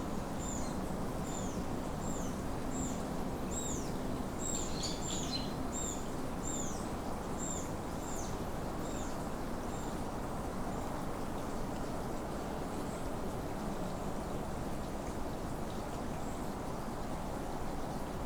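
A small bird repeating a high, down-slurred whistled note about twice a second, fading out about halfway through, with another bird's brief scratchy call around five seconds in, over a steady background rush.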